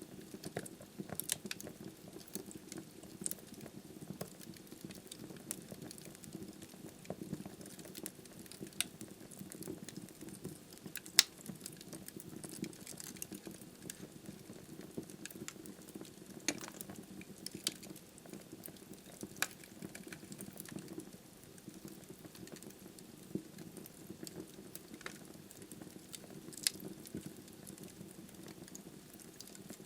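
Wood fire burning in a fireplace: a steady low hiss and flutter of flames with frequent irregular crackles and pops from the logs, one pop about eleven seconds in louder than the rest.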